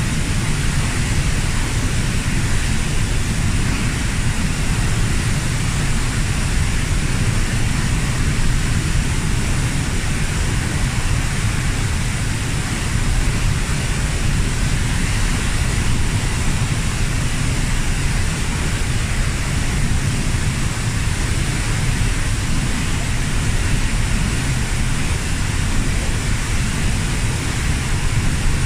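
Waterfall about 15 m high pouring into its pool, a steady, loud rushing roar with a deep rumble underneath and no change.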